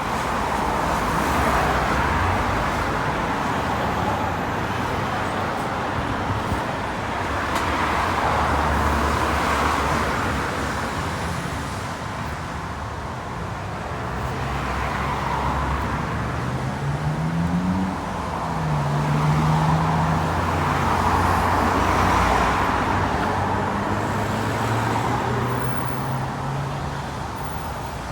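Road traffic: cars and buses passing one after another, the tyre noise swelling and fading every several seconds. About two-thirds of the way through, an engine rises in pitch as a vehicle pulls away.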